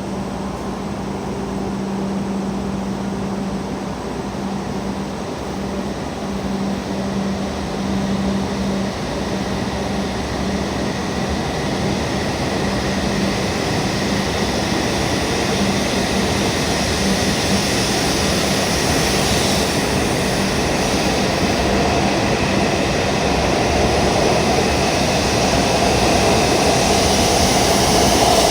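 E7 series Shinkansen train pulling out of the station, its running noise building steadily as it gathers speed. An on-off low hum sounds through the first half.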